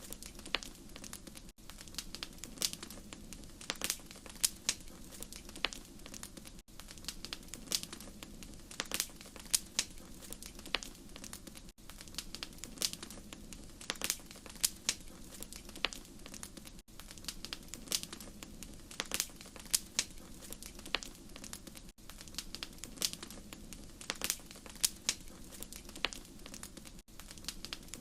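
Wood fire crackling in a fireplace: a steady run of sharp pops and snaps over a low, even rush of flame. The same few seconds of crackle repeat about every five seconds, each time with a brief dropout.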